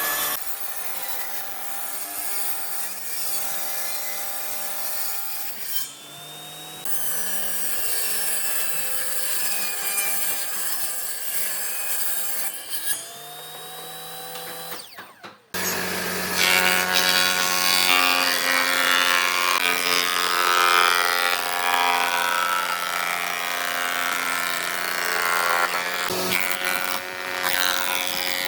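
Electric woodworking tools running and working wood: a steady motor hum with the rasp of the tool on the wood. It changes abruptly twice and is louder in the second half.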